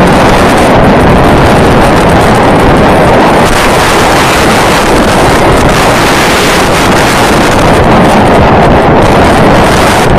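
Wind buffeting the microphone: a loud, steady rush with no clear strokes or tones.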